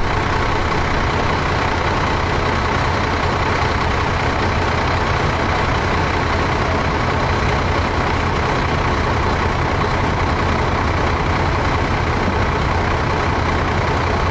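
Large diesel engine idling steadily, a continuous low drone.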